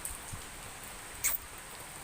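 Light rain pattering steadily, with one short, sharp, high tick about a second and a quarter in.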